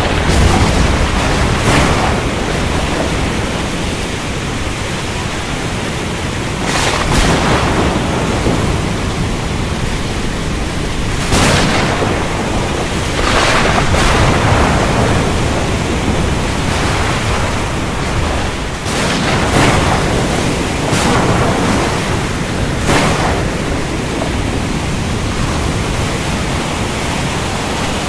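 Thunderstorm at sea: a dense, steady roar of rain and surf with a deep rumble of thunder underneath. Brief sharper crashes break through every few seconds.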